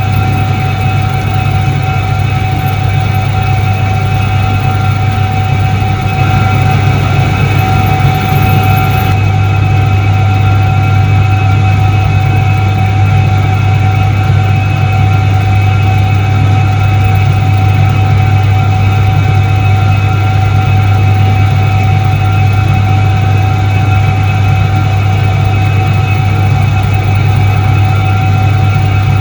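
1978 Soviet Iset-3 washing machine running: its electric motor gives a steady, loud low hum with a few steady higher tones above it.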